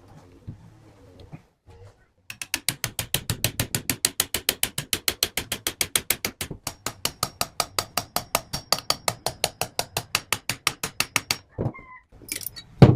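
Ratchet wrench clicking in an even run of about five clicks a second for roughly nine seconds as a fastener is worked loose during disassembly. A couple of louder knocks follow near the end.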